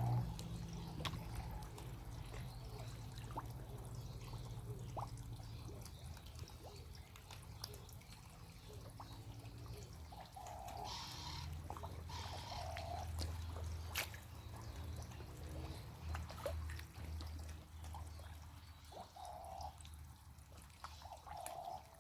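Pond water trickling and dripping, with scattered small splashes over a low steady hum.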